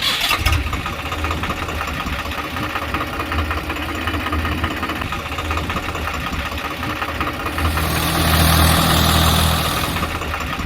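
Tractor engine idling with a fast, even chug. It grows louder with added hiss about eight seconds in, then settles back to a steady idle.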